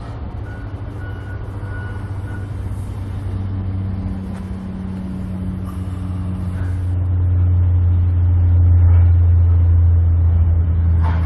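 A vehicle engine running with a steady low drone that grows louder over the second half.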